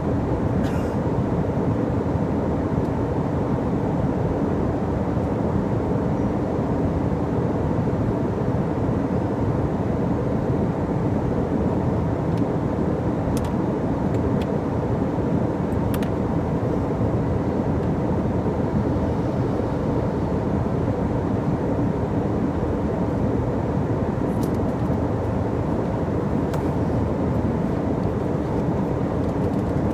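Steady engine and airflow roar inside an airliner's cabin in flight, with a few faint clicks now and then.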